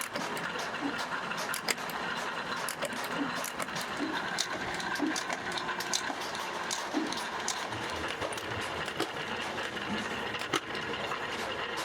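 Workshop machinery running steadily with frequent small metallic clicks and taps.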